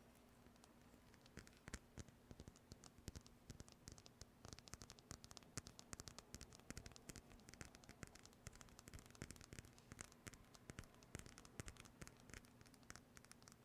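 Quiet, rapid, irregular tapping and scratching clicks, many a second, beginning about a second in.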